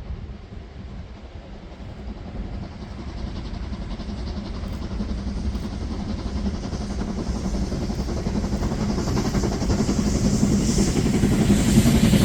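Steam locomotive approaching on a heritage line, its running sound growing steadily louder.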